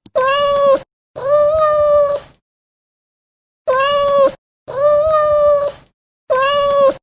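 A cat meowing five times in a row, each meow about a second long, steady in pitch, with sudden silence between them. The meows are so alike that it sounds like the same meow played over and over.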